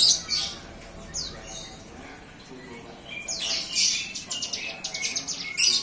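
Young hill prinia (ciblek gunung), just weaned from hand-feeding, starting to find its voice: a few sharp, high chirps, then from about three seconds in a quick run of short chirps.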